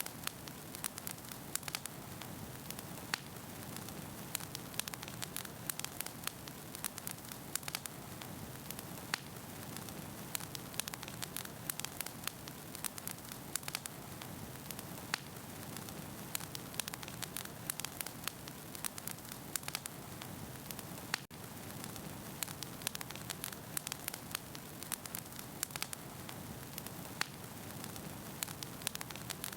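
Wood fire burning in a fireplace: a steady soft hiss of flames with frequent sharp crackles and pops from the burning logs.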